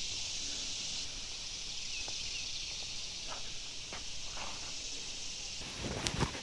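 Steady high-pitched chorus of insects in the swamp, with footsteps knocking on a wooden boardwalk and a louder pair of knocks near the end.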